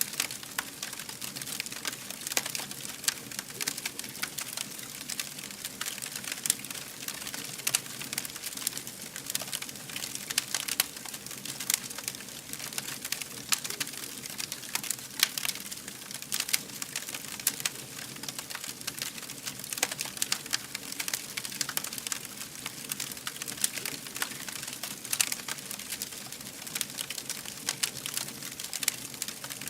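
Fire burning with a continuous crackle: many small irregular pops and snaps over a soft hiss.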